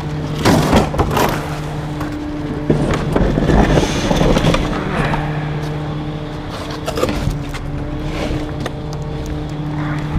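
Garbage truck's hydraulic packer compacting bulky waste: a steady engine-driven hum under irregular cracking, splintering and scraping as items are crushed in the hopper.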